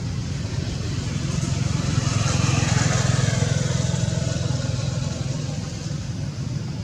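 A road vehicle passing by over a steady low engine hum, growing louder to a peak about three seconds in and then fading as its pitch falls.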